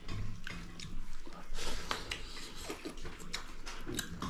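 Close-up wet eating sounds: mouthfuls of rice with potato dal being chewed, with many small smacking clicks.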